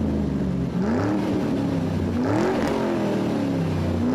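Car engine being revved in repeated blips, its pitch rising and falling about once a second over a steady idle.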